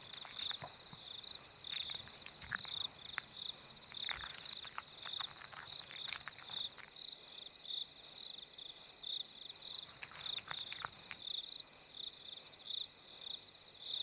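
Crickets chirping in a steady repeating pattern, with a few faint scattered clicks and rustles.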